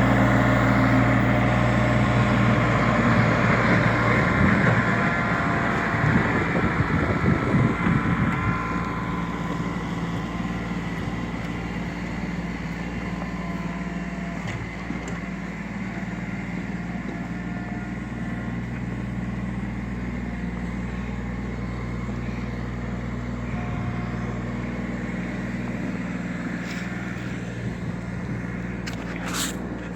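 A snow-clearing machine's engine running steadily. It is louder for the first several seconds, then settles to a lower, even level. A short sharp click sounds near the end.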